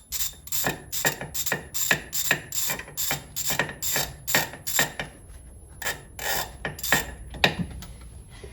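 Hand socket ratchet clicking as it is swung back and forth, about three strokes a second, then slowing to a few spaced strokes and stopping near the end, as a cylinder head bolt is backed out.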